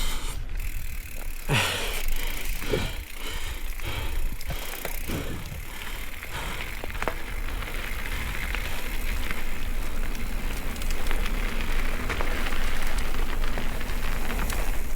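Mountain bike riding over a rough, rocky trail: a few knocks and rattles in the first seconds, then a steady rush of tyre and wind noise that grows a little louder.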